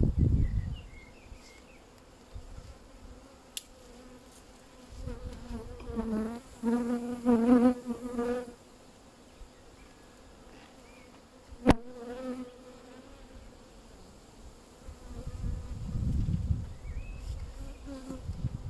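Honeybees buzzing at an open hive. The buzz swells about six to eight seconds in as bees fly close past. Low rumbling bumps come and go, and a single sharp click falls near the middle.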